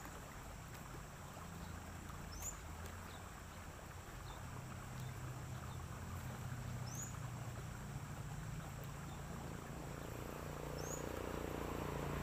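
Outdoor rural ambience: a low steady hum that swells slightly near the end, with a bird's short rising chirp repeated about every four seconds.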